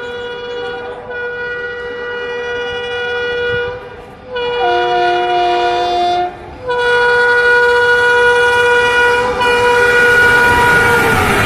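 Locomotive horn of an Indian Railways train sounding in long blasts with short breaks, one middle blast on a different two-note chord. It grows louder, and in the last couple of seconds the rushing noise of the fast train coming up rises under the horn.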